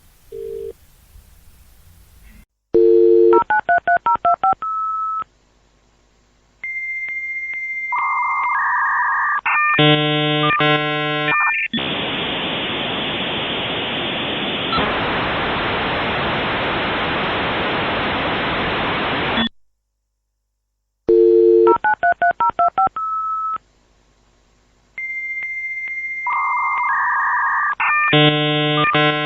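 Dial-up modem connecting: a dial tone, a quick run of keypad dialing beeps, then a high steady answer tone and warbling handshake tones, ending in about eight seconds of loud hiss. After a short silence the sequence starts again.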